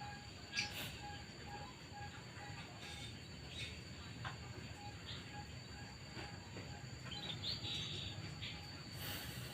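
Quiet outdoor ambience: birds chirping, over a steady high whine and a short tone repeated about twice a second. Scattered light clicks and chirps throughout, the loudest just after the start and in the last couple of seconds.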